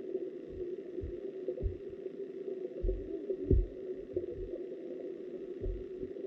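Stream water heard through a submerged camera: a steady low, humming rush with irregular dull thuds every second or so, the loudest about three and a half seconds in.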